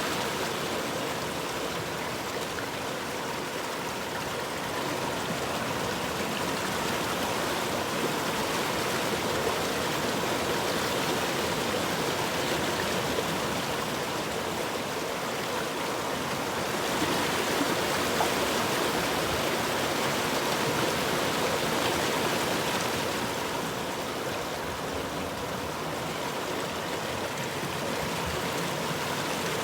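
River water flowing and rushing steadily, an even wash of water noise that swells slightly about halfway through and then settles again.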